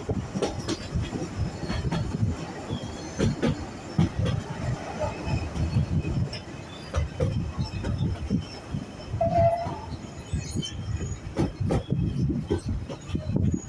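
Narrow-gauge steam railway carriage on the move: wheels clattering and knocking over the track, with the carriage body rattling, and a brief squeal about nine seconds in.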